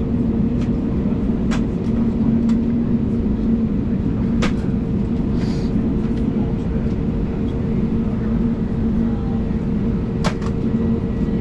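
Steady cabin drone of an Airbus A320neo on the ground with its engines at idle, a constant hum under a broad rush of air, broken by a few sharp clicks from the cabin.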